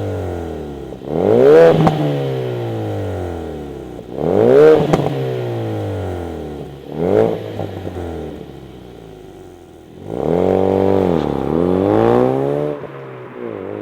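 Ford Focus RS Mk3's 2.3-litre turbocharged four-cylinder revving through a Cobra Sport non-resonated, valved cat-back exhaust. There are three quick blips that rise and fall back to idle, then a longer rev held for about two seconds, and another starting near the end.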